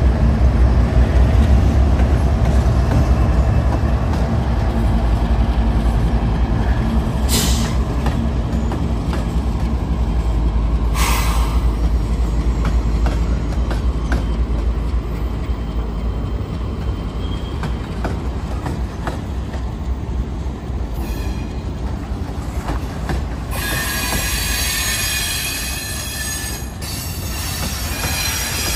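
Union Pacific diesel locomotives pass with a heavy, steady engine rumble, followed by loaded freight cars rolling by with a continuous rumble of wheels on rail. Near the end the car wheels squeal with several high ringing tones at once.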